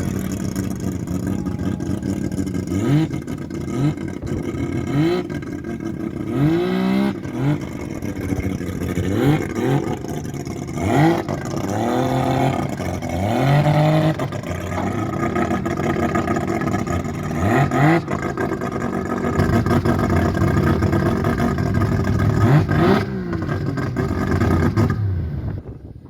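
Car engine running with repeated short rising revs, a string of quick blips through most of the stretch, before the sound drops away abruptly near the end.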